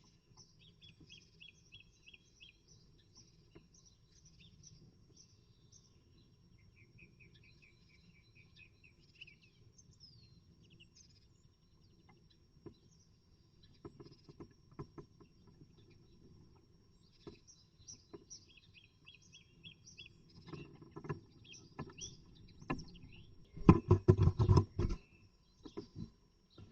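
Small birds chirping and singing in short repeated note series, with scattered knocks and scratches that build to a rapid, loud flurry of knocking and scraping near the end.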